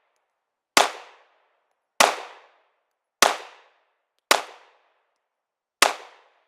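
Glock 43 subcompact 9mm pistol fired five times in a steady slow string, a shot roughly every second and a quarter, each sharp report trailing off in a short echo.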